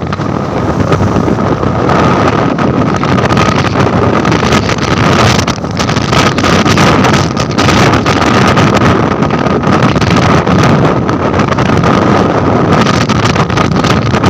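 Wind buffeting the microphone of a motorcyclist riding at speed, a loud steady rush with a faint steady whine underneath.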